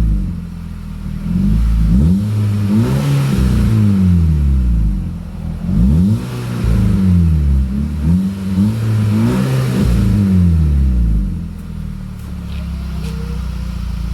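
Audi A3 2.0T turbocharged four-cylinder engine with an AWE Resonated Performance catback exhaust being revved several times, each rev rising and falling back. About eleven seconds in it settles to a steady idle.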